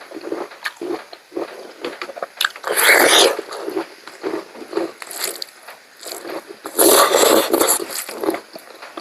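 Close-miked eating of pork curry: wet chewing and mouth clicks and smacks, with two louder noisy stretches about three and seven seconds in.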